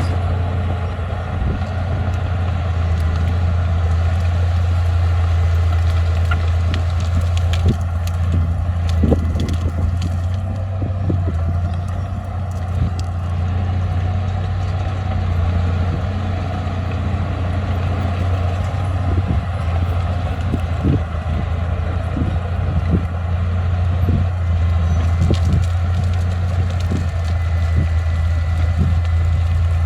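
Bulldozer diesel engine running steadily, with irregular clanks and knocks scattered over it, from the tracks and the pushed soil.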